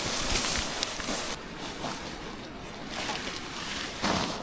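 Steady hiss of rain and wind, the high part of the hiss easing about a second and a half in, with a couple of light knocks.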